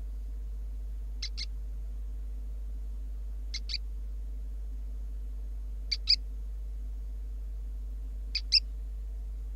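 A short, high two-note animal call repeated about every two and a half seconds, over a steady low hum.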